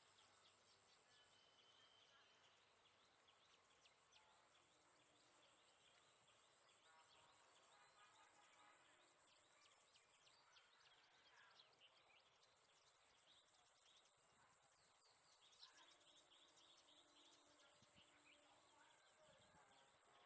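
Very faint outdoor ambience: scattered short bird chirps over a steady high thin whine.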